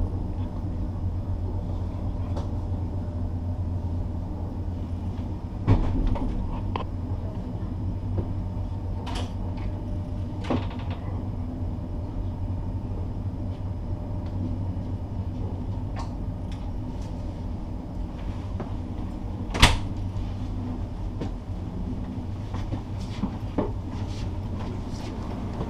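Passenger train carriage rolling along, heard from inside: a steady low rumble with a few sharp knocks and clunks, the loudest about twenty seconds in.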